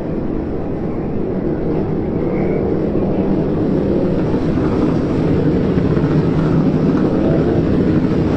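Steady engine rumble with no clear revving, slowly growing louder.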